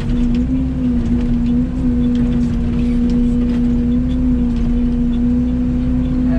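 Mini excavator running steadily while the operator loads dirt, its engine and hydraulics making a constant low rumble with a strong steady whine.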